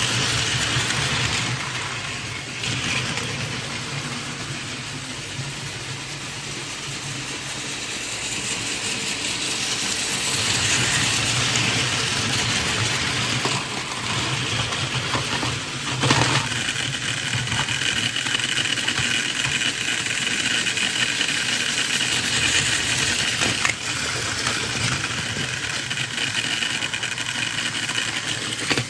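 Battery-powered Plarail toy Shinkansen running on plastic track: a steady small-motor whir with the rattle of its wheels on the track. There is a knock about sixteen seconds in, after which a higher whine joins the sound.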